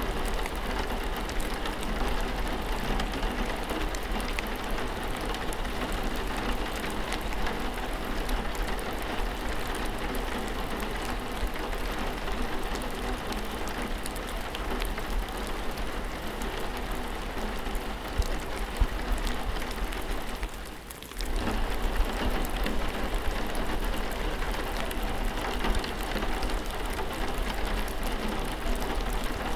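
Steady rain falling, with many small drop ticks over a steady low hum. The sound dips briefly about two-thirds of the way in, then comes straight back.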